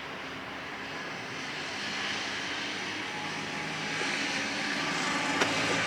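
Engine drone, steady and slowly growing louder, with a few low steady tones in it. A single sharp click near the end.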